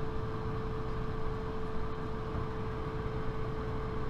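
Steady cabin drone inside a Bombardier CS300 (Airbus A220-300) airliner on the ground, a constant whine over a low rumble.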